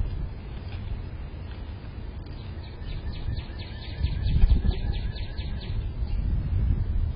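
A small songbird sings a rapid trill of short, quick notes, each dropping in pitch, for about three seconds from partway in. Low wind rumble on the microphone sits under it, louder about four seconds in.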